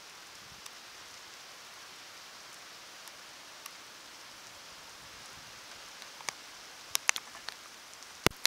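Steady hiss of storm rain falling, with sharp single ticks of drops striking close by. The ticks come more often in the last few seconds.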